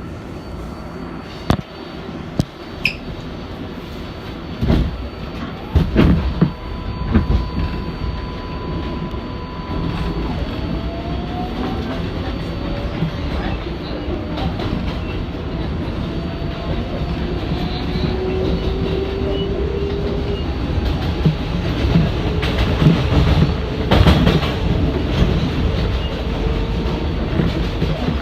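R188 subway train on the 7 line pulling out and accelerating, heard from inside the car: the motor whine rises in pitch and the car grows louder. The wheels knock and clack over rail joints, most sharply in the first few seconds.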